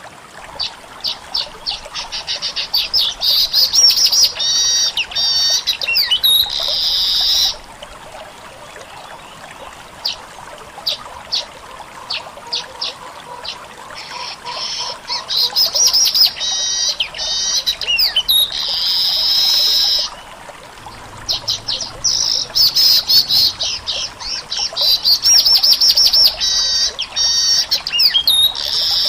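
Caged manyar (weaver bird) singing in full voice, the vigorous song keepers call gacor. It gives three song bouts, each a run of quick ticking notes that speeds up into a trill and ends in a buzzy wheeze of about a second.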